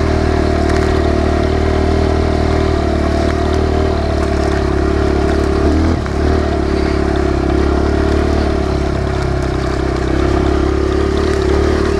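Kawasaki KLX140 dirt bike's single-cylinder four-stroke engine running under way at steady revs in third gear, with a brief dip in the engine note about six seconds in.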